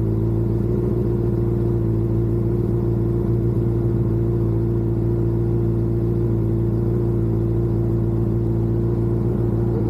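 Vehicle engine and road noise droning steadily at a constant cruising speed, with a low hum that neither rises nor falls.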